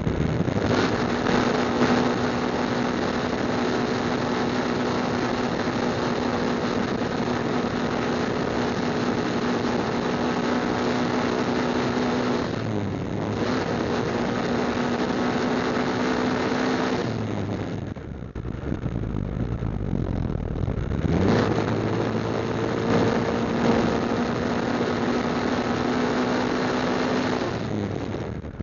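Motorcycle engine running at a steady cruising speed with road and wind noise. Partway through the engine note dips briefly. Later it falls away for a few seconds, then rises again as the throttle is opened and settles back to a steady pitch.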